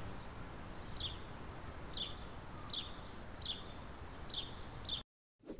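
A bird repeating a short, falling chirp about every three-quarters of a second over faint outdoor background noise. The sound cuts off suddenly near the end, followed by one brief soft sound.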